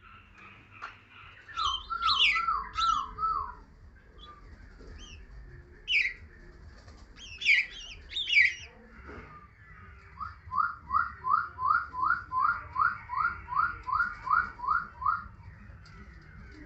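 Pied bushchat (decu) calling: a few sharp, high chirps and two runs of quick rising whistled notes, about three a second. The first run is short, about five notes; the second, later on, is about fourteen.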